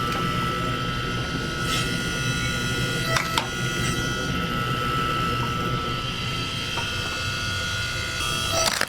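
Steady machine hum with a high whine on top, broken by a few light clicks and knocks.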